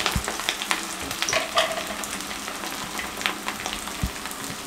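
Chapli kabab shallow-frying in a pan of hot oil: steady sizzling with scattered crackles and pops.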